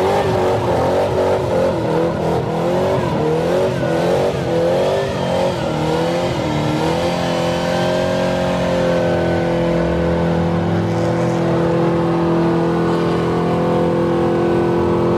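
A car doing a burnout: the engine revs rise and fall unevenly for about seven seconds, then hold steady at high revs while the rear tyres spin in place.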